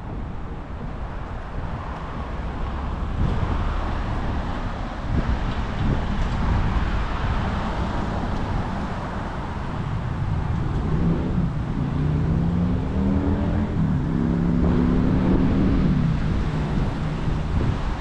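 Wind on the microphone and steady road rumble, with a motor vehicle's engine rising in pitch and then holding for several seconds past the middle.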